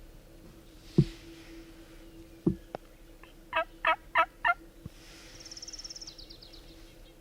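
Wild turkey calling: four quick, evenly spaced notes in a row about halfway through. Before them, a sharp thump about a second in. Near the end, a small bird sings a fast falling trill.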